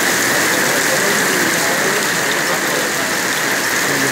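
Heavy rain pouring down on paved street and parked vehicles: a loud, steady hiss.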